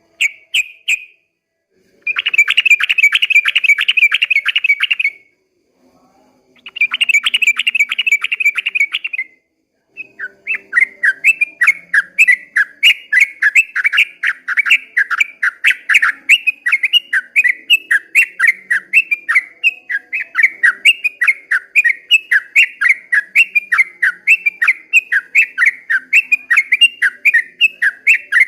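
Yellow-vented bulbul (trucukan) singing: a short call, then two rapid trills with brief pauses between them, then a long unbroken run of quick sweeping notes, the 'ropel panjang' song.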